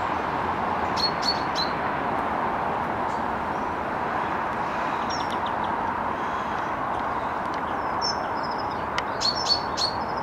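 Small songbirds chirping in short clusters of sharp, high notes, about a second in and again near the end, over a steady background hiss.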